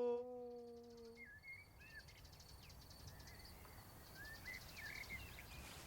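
A long howl on one steady pitch, a call for young wolves, ends about a second in. Faint crickets chirping and a few short bird calls follow.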